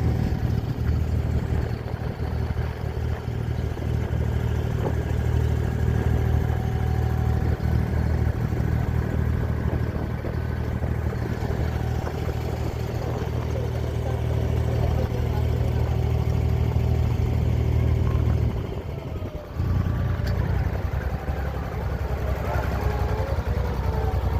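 An abra water taxi's engine running steadily with a deep hum. It drops away briefly about nineteen seconds in, then carries on.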